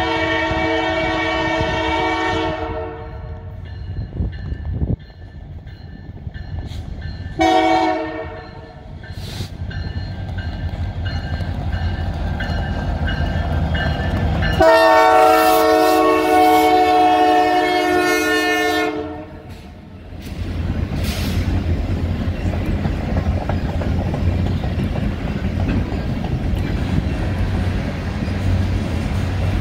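Canadian Pacific diesel locomotive sounding its air horn in three chord-like blasts: a long one, a short one about seven seconds later, then a longer one of about four seconds as the locomotive passes. After that the engine and the freight cars rumble past with steady wheel noise on the rails.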